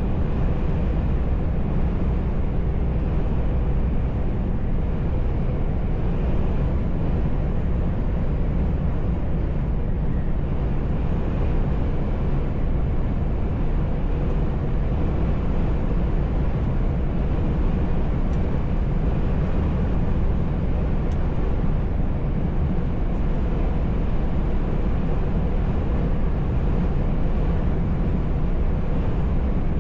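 Steady drone of a heavy truck's engine and road noise heard inside the cab while driving at a constant speed.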